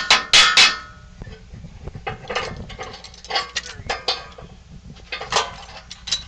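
Hammer striking steel twice in quick succession, the strikes stopping under a second in, followed by scattered lighter metal clinks and rattles.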